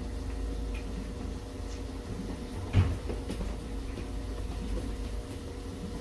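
A single sharp knock about halfway through, typical of a cupboard door or cookware being set down, over a steady low hum with a few faint clicks.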